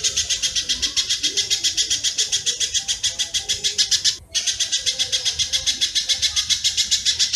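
Recorded bird calls used as a training (masteran) track: a fast, steady train of high chips, about nine a second, with a brief break about four seconds in.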